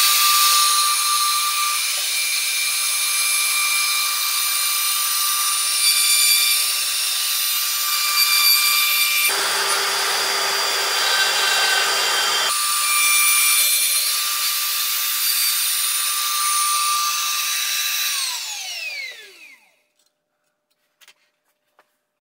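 Small hobby milling machine running with a high whine as a two-flute end mill cuts cast iron; for about three seconds in the middle the sound turns coarser. Near the end the spindle is switched off and winds down, its whine falling in pitch.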